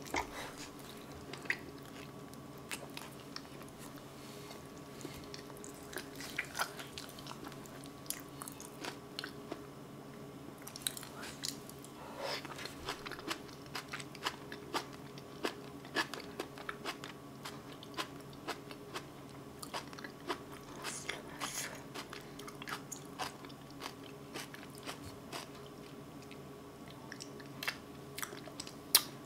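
A person chewing a mouthful of boiled potato with frequent small wet mouth clicks and smacks, picked up close by a microphone, over a faint steady electrical hum.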